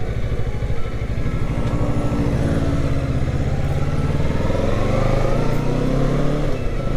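Kawasaki Ninja 650's parallel-twin engine pulling the bike along, heard from on the bike. Its pitch climbs steadily for several seconds as it accelerates, then dips briefly near the end.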